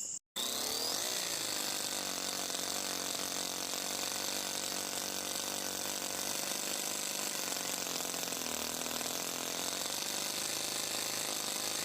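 Small electric motor running steadily through a gear train. Its pitch sags briefly twice and recovers.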